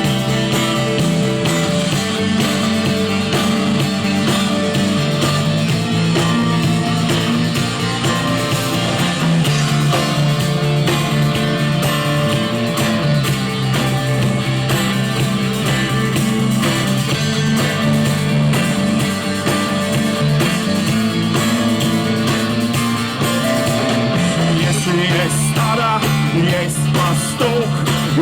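A rock song led by guitar over a steady bass line, played without vocals; a singing voice comes in near the end.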